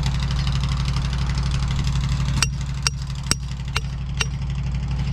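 Vehicle engine idling steadily. About halfway in, a regular ticking starts, a little over two ticks a second.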